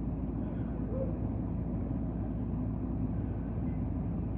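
A steady low rumble, like idling vehicle engines, with no clear events.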